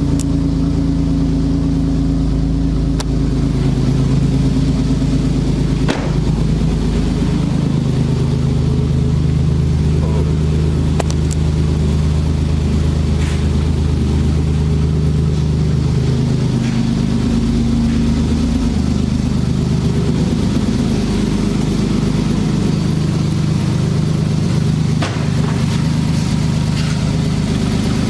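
Truck engine running steadily at idle, its pitch shifting slightly a few times.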